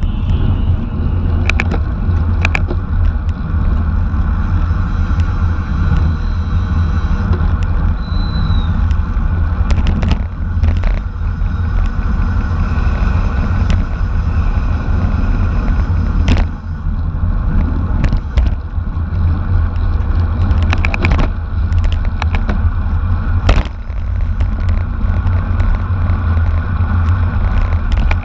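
Wind buffeting the microphone at race speed: a loud, steady low rumble, with scattered sharp clicks and a brief high squeal about eight seconds in.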